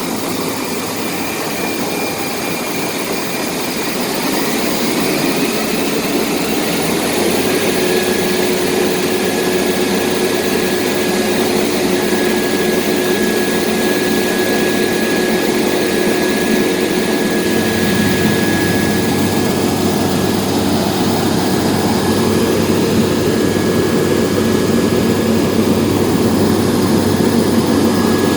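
Rostselmash Acros 585 combine harvester at work, heard from inside the cab: a steady drone of engine and threshing machinery. It grows louder over the first several seconds, and a steady whine joins in shortly after.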